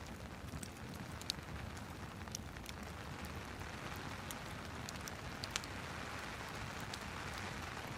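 Fireplace and rain ambience: a steady hiss of rain with a wood fire crackling, its sharp pops scattered irregularly, the loudest about a second in and again past five seconds.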